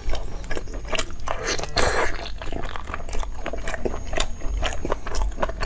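Close-miked chewing of beef with tendon: a steady run of wet clicks and smacks from the mouth, loudest around two seconds in.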